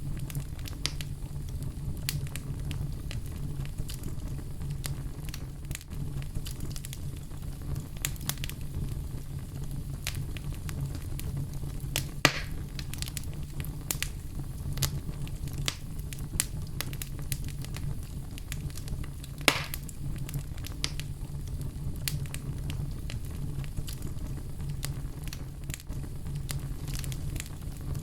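Wood fire in a fireplace crackling, with frequent small snaps and a couple of louder pops, about twelve and about twenty seconds in, over a steady low rumble of the flames.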